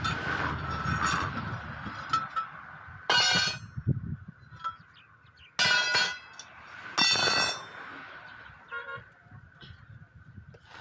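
Vehicle horns sound three short loud blasts, with light metallic clinks and a faint steady whine underneath.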